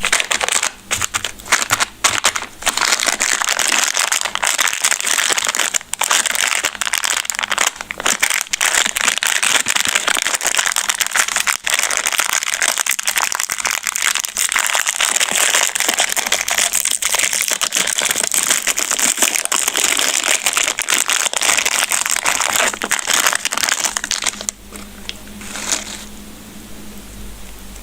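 Candy wrappers crinkling and crackling as they are handled and opened, a dense run of small crackles that drops away about 24 seconds in.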